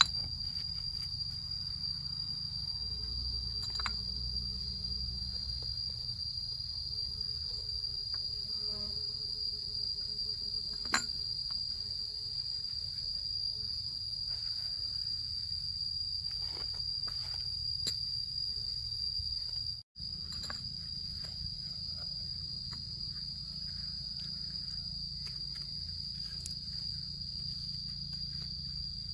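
Insects chirring in one steady, unbroken high note, with a brief break about twenty seconds in.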